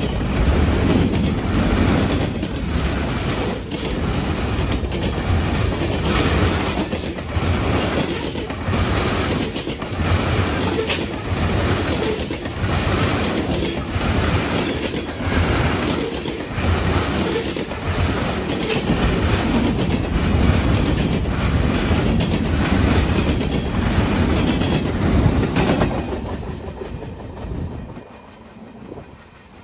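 BNSF freight train cars rolling past, the wheels clicking over rail joints in a steady rhythm of about one beat a second. The sound drops away about 26 seconds in as the end of the train passes, then fades.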